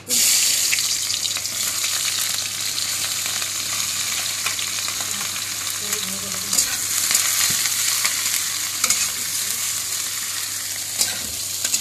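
Sliced onions and green chillies sizzling in hot oil in a metal kadhai: a loud frying hiss that starts suddenly as they hit the pan and holds steady, with a few sharp clinks and scrapes of the steel spatula against the pan as they are stirred.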